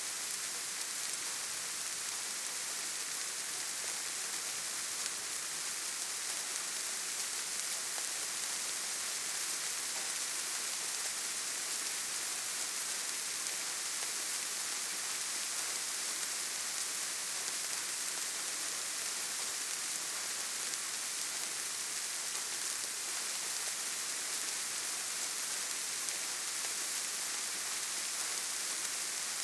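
Steady rainfall, an even hiss of rain with no single drops standing out and no change throughout.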